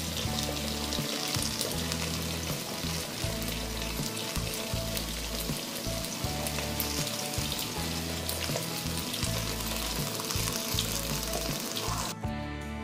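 Cubed potatoes frying in hot oil in a heavy-bottomed kazan: a steady sizzle with many small crackles and pops. The sizzle cuts off suddenly near the end, leaving background music.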